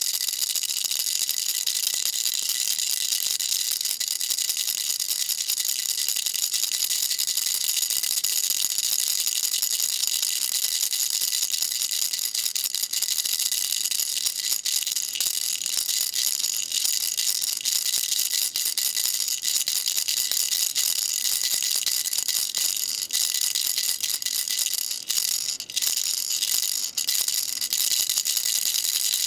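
Baby rattle shaken continuously, a dense, high rattling that falters briefly a few times near the end.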